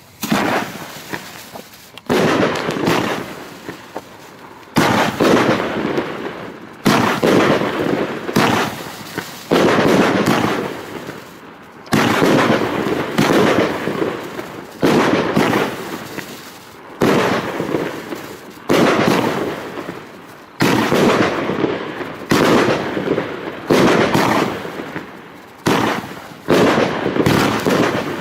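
Consumer fireworks battery (cake) firing shot after shot, roughly one every two seconds. Each shot is a sudden bang that fades away over a second or two.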